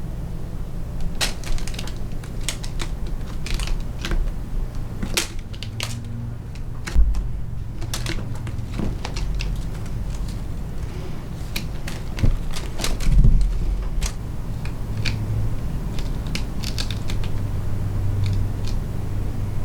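Irregular scratches and clicks, scattered over the whole stretch, with a steady low hum underneath and a heavier knock about 13 seconds in.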